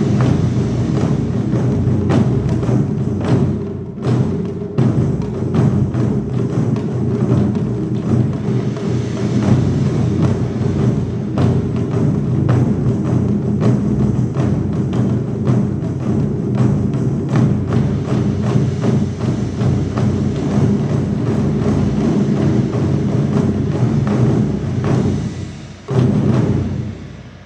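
Ensemble of Japanese taiko drums played fast and densely, deep drum booms mixed with sharp clicking strokes. It ends about 26 seconds in with one last loud stroke that dies away.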